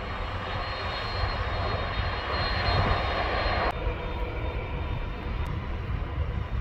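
Airbus A300-600ST Beluga's turbofan engines running, a broad jet rush over a low rumble. The rush cuts off sharply a little over halfway through, leaving a quieter rumble.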